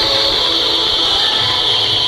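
A row of fountain fireworks (gerbs) spraying sparks with a steady hiss whose pitch sinks slightly, and faint music underneath.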